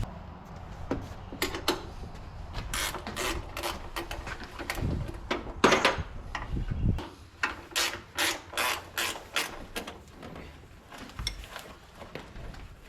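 Hand ratchet wrench clicking in short, irregular runs of strokes, tightening bracket bolts.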